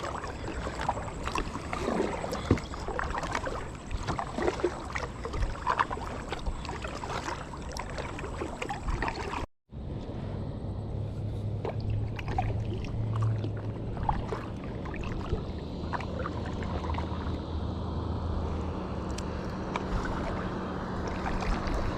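Kayak paddling on a river: paddle strokes dipping and splashing in the water. After a short break about halfway through, a steady low hum joins the water sounds for several seconds.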